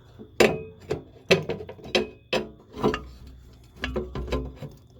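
Sharp metal clicks and knocks, about a dozen at uneven intervals, as the Pryne Blo-Fan exhaust fan's motor and impeller assembly is worked back into its sheet-metal cradle.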